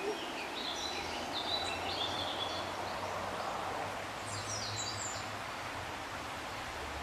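Birds chirping outdoors in two spells of quick, high notes, the first in the opening two seconds and a second, falling run about four seconds in, over a steady rushing background noise.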